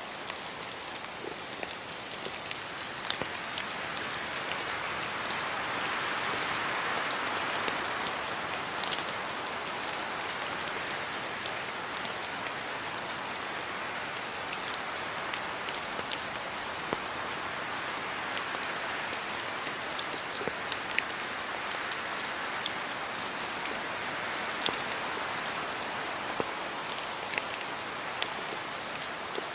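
Steady rain falling and pattering on surfaces in a house yard, an even hiss with scattered sharp drip ticks, swelling slightly a few seconds in.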